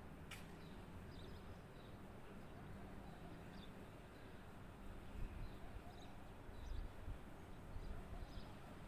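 Faint, scattered chirps of small birds singing, over a low steady background rumble. There is a single sharp click just after the start.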